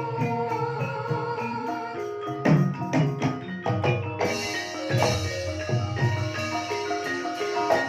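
Banyumasan gamelan ensemble playing an instrumental piece in ebeg style: struck mallet instruments ring out in quick overlapping notes, with sharp drum strokes.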